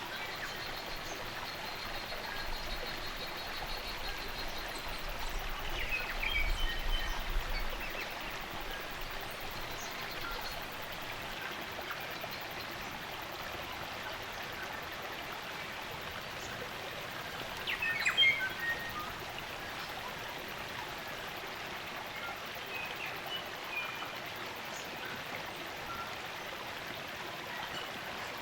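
Spring-fed stream running steadily, with New Zealand native forest birds calling now and then: a long held high whistle near the start, chirps about six seconds in with a low rumble under them, and the loudest call about eighteen seconds in.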